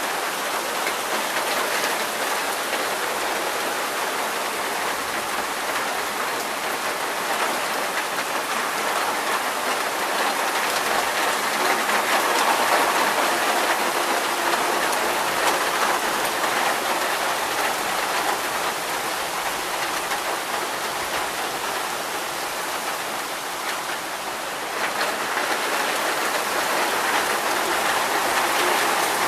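Heavy thunderstorm rain pouring steadily, a dense even hiss that swells around the middle and again a few seconds before the end.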